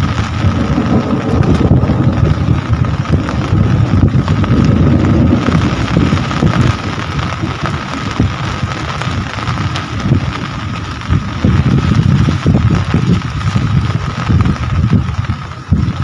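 Rain falling steadily, with wind buffeting the microphone in heavy gusts that ease off briefly near the end. A faint steady high tone runs under the hiss.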